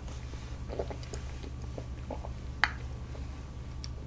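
Soft mouth sounds of chewing tiramisu cake, with a few faint clicks and one sharper tick about two and a half seconds in, over a low steady hum.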